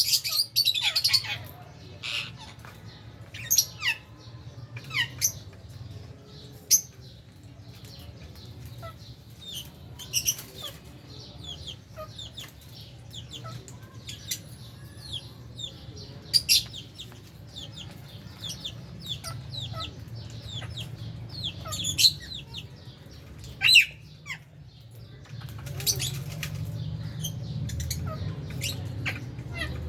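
A flock of lovebirds and budgies chirping and squawking in short, sharp, high calls scattered throughout, over a low steady hum.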